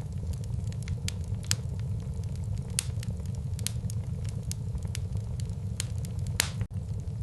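Wood fire burning in a fireplace: a steady low rumble of flame with frequent irregular crackles and pops, a few of them sharper and louder.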